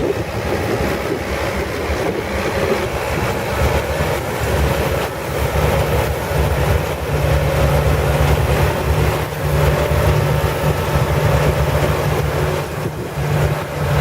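Potato combine working in the field: a steady low engine drone with machinery noise over it.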